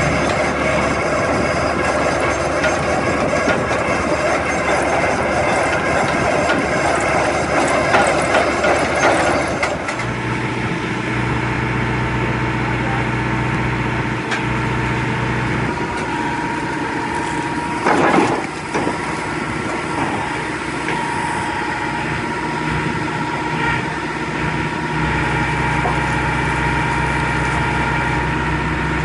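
Mobile log debarking machine running. For about the first ten seconds it gives a dense, noisy working sound, which then settles into a steadier mechanical hum. There is a short, loud knock about 18 seconds in.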